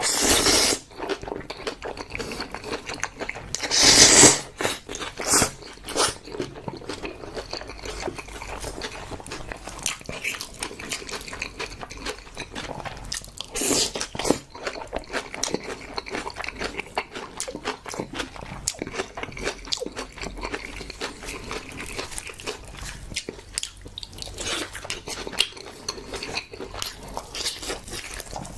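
A person eating jokbal and spicy mixed noodles close to the microphone: a steady run of wet chewing and biting clicks, with a few louder bursts, the loudest about four seconds in.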